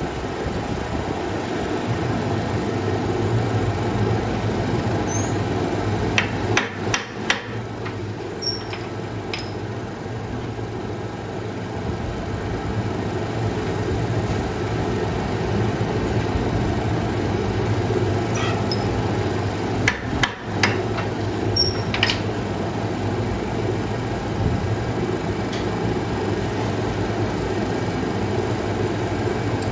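Hammer blows on metal in two short bursts, a few sharp strikes with light metallic pings, over a steady low machine hum. This fits a steel sleeve being knocked into a motorcycle wheel hub.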